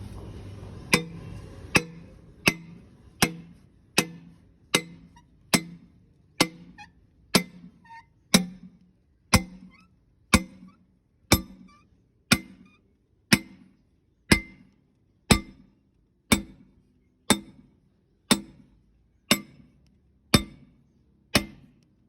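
Hammer blows driving a new cylinder sleeve into a tractor engine block: sharp metal-on-metal strikes with a short ring, about one a second, coming a little faster at first.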